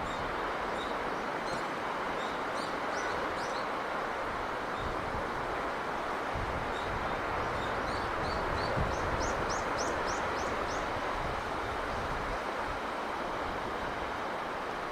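Steady rush of sea breeze, even and unchanging, with small birds chirping over it in short series, including a quick run of rising chirps about nine to eleven seconds in.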